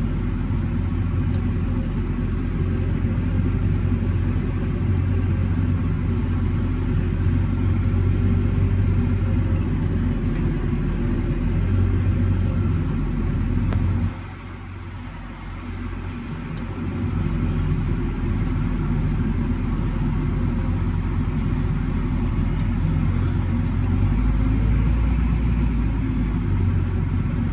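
Tractor engine running steadily, heard from inside the cab while towing a trailer. About halfway through it drops quieter for two or three seconds, then builds back up.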